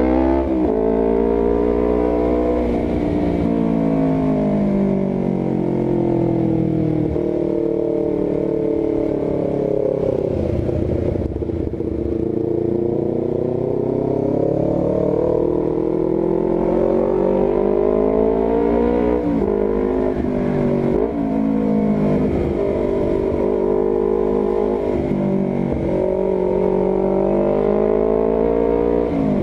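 Honda CBR250RR with an R9 GP series full-system aftermarket exhaust accelerating hard. Its pitch climbs and drops sharply at each gear change; about a third of the way in it eases off, then pulls up through the gears again.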